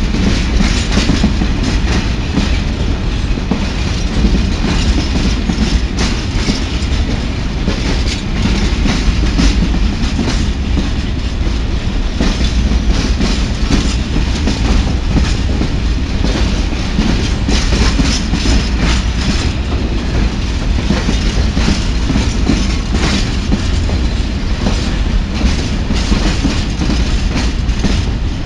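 A train running past on the rails, a steady loud rumble with the wheels clattering over the rail joints.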